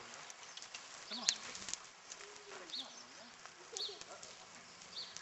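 A bird calling a short, high chirp over and over, about once every second and a quarter, with a few sharp clicks and faint distant voices underneath.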